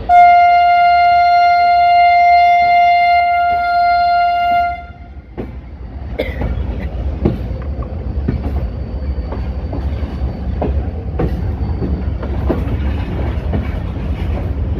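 Train horn sounding one long, loud, steady note for about five seconds, then the train rolling along the track with a low rumble and scattered clicks of the wheels over the rail joints.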